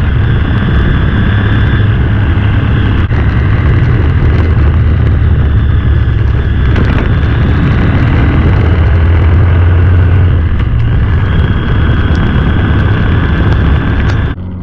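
Motorcycle engine running at road speed with heavy wind noise on the microphone, its pitch shifting slightly as the throttle changes. The sound drops sharply just before the end.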